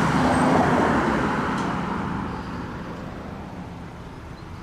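Road traffic: a vehicle passes close by, its rushing tyre and engine noise fading over about two seconds into a quieter steady traffic hum.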